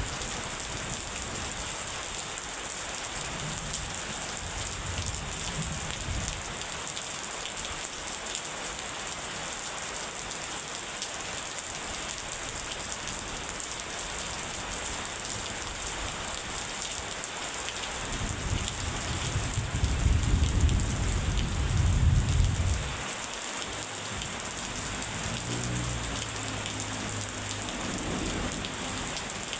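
Steady rain falling with an even hiss. About two-thirds of the way in, a loud low thunder rumble builds and then cuts off suddenly, followed by a fainter low rumble near the end.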